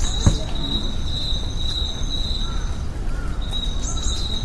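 Steady high-pitched insect trill with short breaks, over a constant low rumble, with a single knock about a third of a second in.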